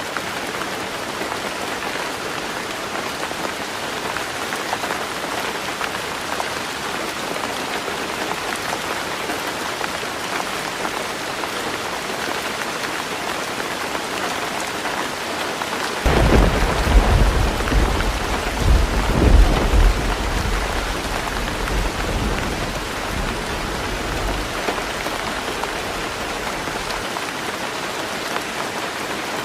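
Heavy rain falling on a tin roof, a steady hiss. About halfway through, a sudden rumble of thunder breaks in, loudest for a few seconds, then dies away over several more.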